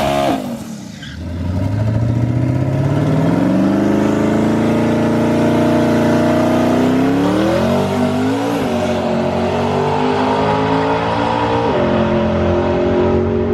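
Twin-turbo Mustang engine revving. Its pitch drops sharply just after the start, climbs and holds steady for a few seconds, climbs again, then steps down near the end.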